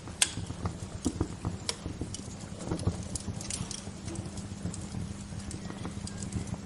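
Wood bonfire crackling, with sharp irregular pops and snaps over a steady low hiss and rumble; the loudest pop comes about a quarter second in.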